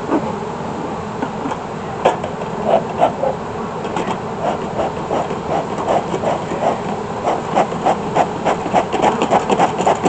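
Beekeeper's smoker bellows pumped in quick puffs, about three or four a second, that come faster and more regularly in the second half. Under them is the steady hum of honeybees from the open hive.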